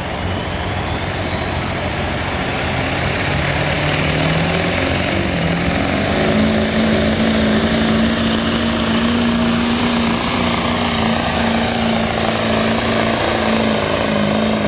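Turbocharged diesel pulling truck running hard under load. Its turbo whistle climbs steadily in pitch over the first six seconds as the engine and boost build, then holds as a high whine over a steady engine note for the rest of the pull.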